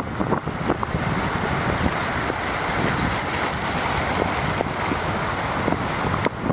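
Wind buffeting the microphone while cycling in the rain, over a steady hiss of bicycle tyres on wet pavement, with scattered light ticks.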